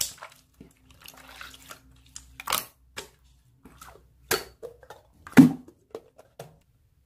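Slime being squeezed and pressed by hand, giving irregular wet pops and clicks, a few of them sharp and loud.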